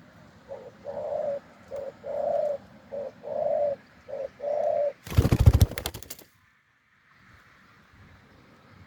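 Spotted dove cooing: four phrases, each a short note followed by a longer one. About five seconds in, a loud burst of crackling noise lasting about a second drowns everything out, then cuts off suddenly.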